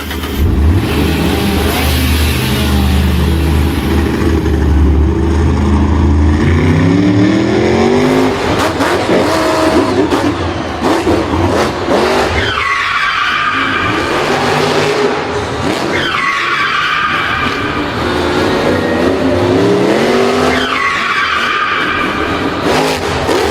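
Racing vehicle engines revving up and down, with tyres squealing three times.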